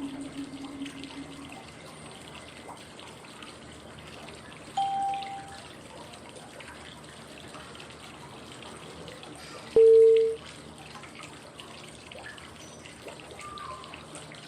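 Steady flowing-water white noise with a short prompt tone about every five seconds, marking each switch between the inhale, hold and exhale phases of 5-5-5 breathing. A higher tone comes about five seconds in, and a lower, louder one about ten seconds in.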